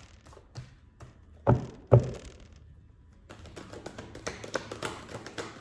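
Tarot cards handled on a table: a few light taps, two louder knocks about a second and a half and two seconds in, then a quick run of small crisp clicks as the deck is shuffled.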